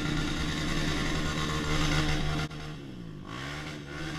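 Dirt bike engine running hard under throttle on a hill climb. It holds a steady note for about two and a half seconds, then drops off sharply, and a quieter engine note falls and rises again.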